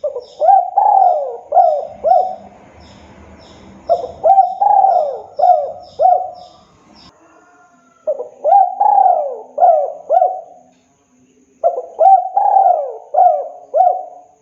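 Spotted dove cooing in four phrases, each a quick run of repeated coo notes, with short pauses between the phrases.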